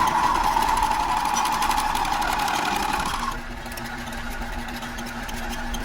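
A workshop machine tool whines at a steady, slightly falling pitch, then cuts off about three seconds in, leaving a steady low hum.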